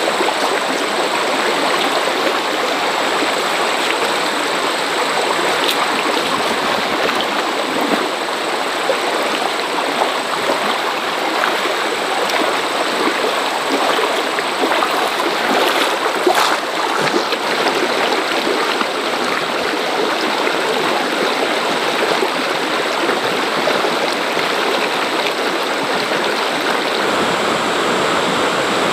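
Steady rush of water, an even noise that does not change.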